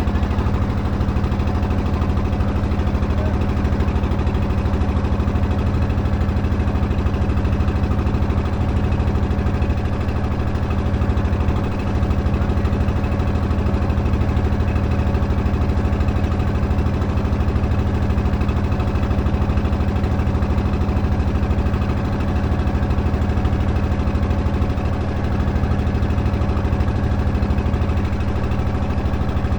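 Engine running steadily at idle, with an even low hum that does not change.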